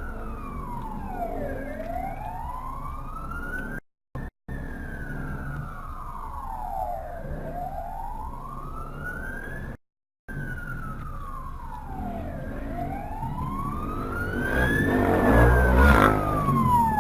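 Emergency vehicle siren in a slow wail, its pitch sweeping up and down about every five to six seconds. The sound cuts out briefly twice. A rumble and rush of noise builds over the last few seconds, as of a vehicle drawing close.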